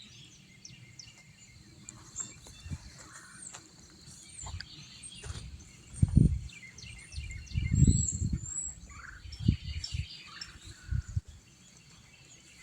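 Small birds chirping in the background, with several low, muffled thuds and rumbles on the microphone, the loudest a little past halfway through.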